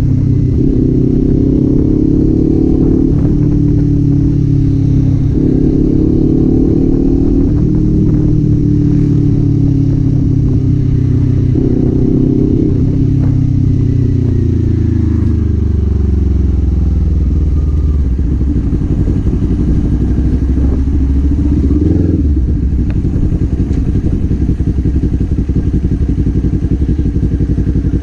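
Kawasaki Z400 parallel-twin engine and exhaust under way. The revs climb and drop back in steps through the first dozen seconds as it shifts gears, then the pitch falls steadily as the bike slows, and it settles to a low idle, with a short throttle blip about three-quarters of the way through.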